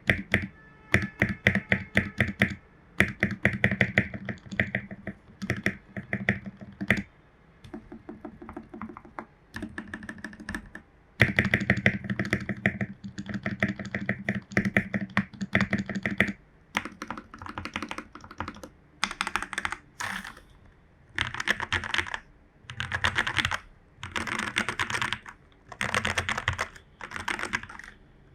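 Typing on a Royal Kludge RK84 mechanical keyboard with lubed Jwick Yellow linear switches, foam and tape modded: a steady stream of quick key clacks. About halfway through it breaks into short flurries of fast keystrokes about a second long, with brief gaps between them.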